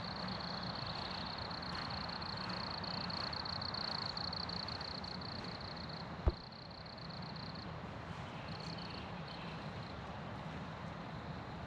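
A steady, high, pulsing insect trill over the even hiss of a rushing river; the trill stops about seven and a half seconds in and comes back twice in short bits. A single sharp bump sounds about six seconds in.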